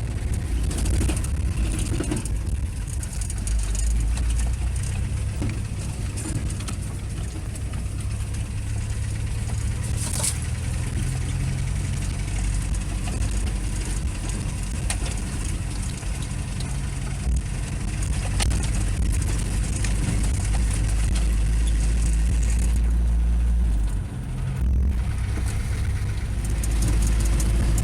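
GAZelle light truck driving slowly over a rough dirt road: a steady low engine drone with road and body rumble, dipping briefly about three-quarters of the way through.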